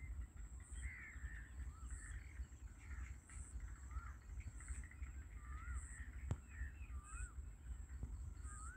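Faint background of birds calling: many short chirping calls throughout, over a low rumble and a thin steady high tone that pulses about once a second.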